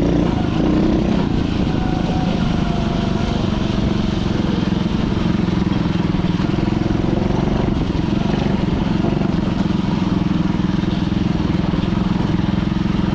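Dirt bike engine running at a fairly steady speed under way, with little change in pitch.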